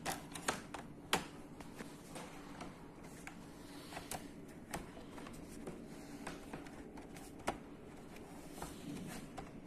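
Plastic clicks and taps of laptop parts being handled and fitted back into place: a few sharp clicks in the first second, then scattered lighter ones, over a faint steady hum.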